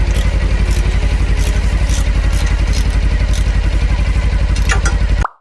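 Suzuki V-Strom 250's engine idling with an even, rapid pulse, with a light clatter over it; it cuts off abruptly near the end.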